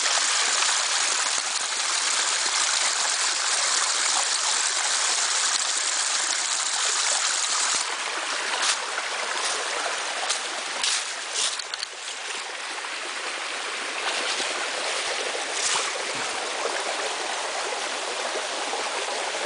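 Creek water running over rocks in small cascades: a steady rushing. About eight seconds in it becomes a little quieter, and a few short clicks sound over it.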